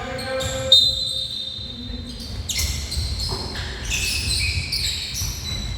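Basketball game on an indoor court: a ball bouncing, with scattered thuds and many short high squeaks, one loud hit about a second in.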